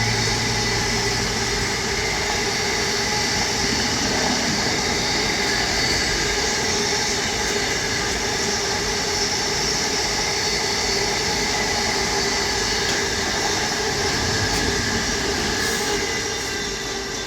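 Class 66 diesel freight train passing: the locomotive's engine drone dies away about a second in, then the wagons roll past with a steady noise and thin whining tones from the wheels, fading near the end.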